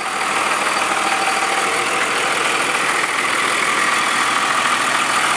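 Cummins turbo diesel of a 1998 Dodge 3500 dually idling steadily.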